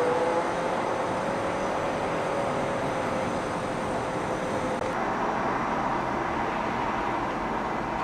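Steady outdoor vehicle noise of the city-traffic kind, with a faint tone rising slowly that stops about five seconds in, where the sound changes abruptly.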